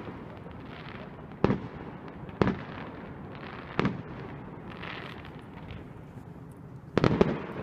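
Fireworks going off: single sharp bangs about a second apart, then a quick cluster of several bangs near the end.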